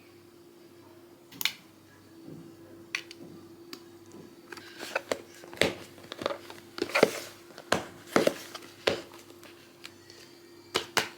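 Small objects being handled close up: a string of sharp clicks and taps, few at first and coming thick and fast from about halfway, over a steady low hum.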